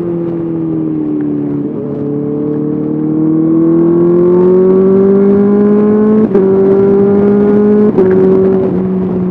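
Honda CBR 650R inline-four engine through an SC Project SC1R exhaust, pulling under acceleration with the pitch rising steadily. It is cut twice by brief breaks, each followed by a slightly lower pitch, typical of upshifts.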